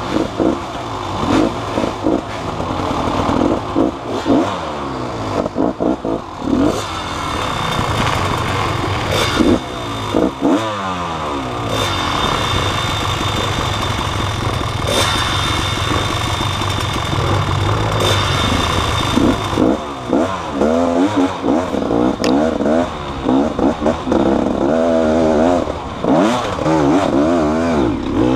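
Motorcycle engine revving up and easing off over and over, its pitch rising and falling, with rattling and knocks mixed in.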